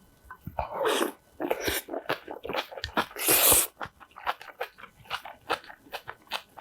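Close-miked eating sounds: wet chewing and slurping, a loud airy intake about three seconds in, then a quick run of crisp crunches as food is bitten and chewed.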